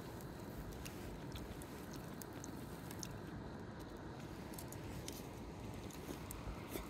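A person quietly chewing grilled saury, over a faint steady background with scattered small crackles from the wood fire and charcoal grill.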